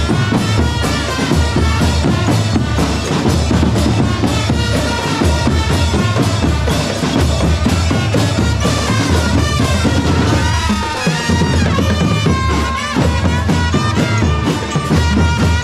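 Music with drums: a steady bass drum and snare beat under a melody line.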